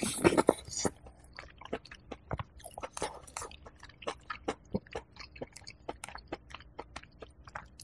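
Close-miked eating of chicken porridge with rice crust: a loud mouthful in the first second, then chewing with many short clicks and smacks.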